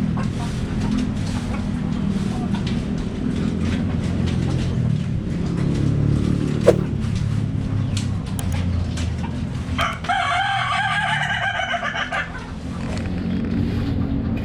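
A rooster crows once for about two seconds, roughly ten seconds in, over a steady low hum and faint chirping of small birds.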